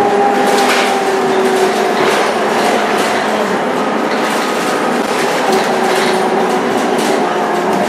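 Scania K230UB Euro 4 bus running under way: a steady drone with a whine that slowly drops in pitch, and scattered clicks.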